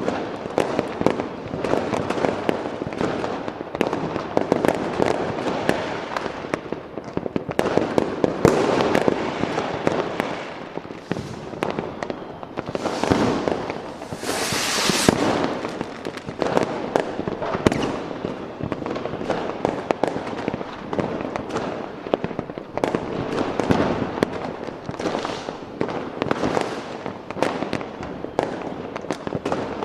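Fireworks going off in a continuous stream of overlapping bangs and crackles, with a brief burst of hissing about halfway through.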